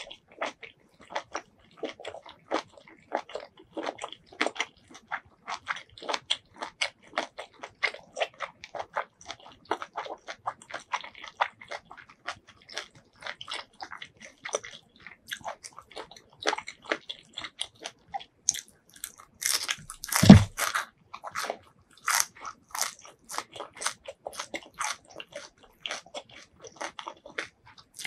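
Close-miked mouth sounds of chewing crunchy squid salad: a steady run of short crunching and chewing strokes, several a second. The loudest is a hard bite with a low thump about twenty seconds in, among a few sharper crunches.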